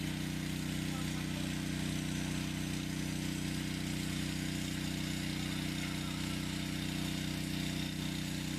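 An engine running steadily at an even idle, a constant low drone that does not change.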